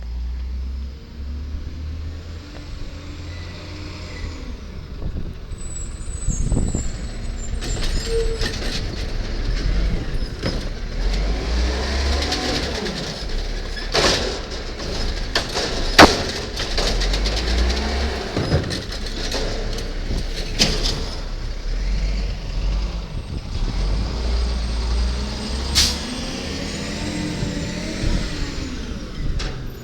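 Garbage truck working its route: the engine runs and revs under load, with rising and falling hydraulic whines. A series of sharp bangs, the loudest about halfway through, comes from the collection work.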